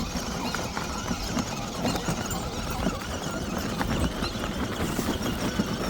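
12V kids' electric ride-on truck driving over rocks: its plastic wheels knock and clatter irregularly over the stones while its electric drive motors run under strain.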